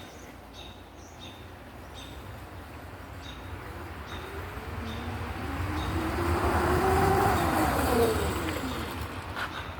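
Electric dirt bike's motor whine and running noise growing louder over several seconds, its pitch rising and then falling, then fading away near the end.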